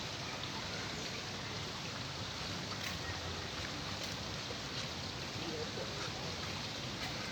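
Steady hiss of water, with a few faint ticks.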